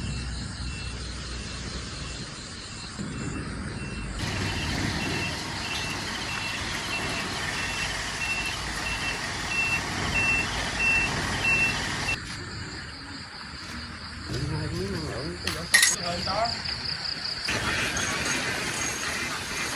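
A truck's reversing alarm beeps at a steady even rate over engine and outdoor noise, then stops about twelve seconds in. Later a sharp knock stands out against wavering calls or voices.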